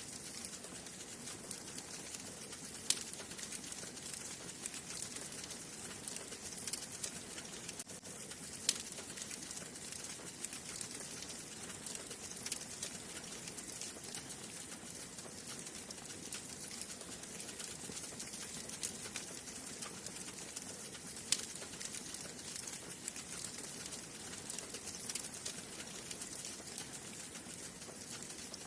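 Wood fire burning in a fireplace: a steady hiss with many small crackles and a few sharp pops, the loudest about three seconds in and about twenty-one seconds in.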